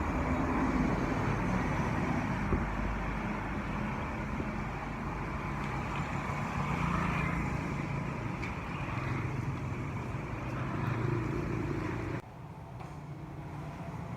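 A road vehicle running steadily, its low engine drone shifting up and down under road and wind noise; the sound drops away suddenly about twelve seconds in.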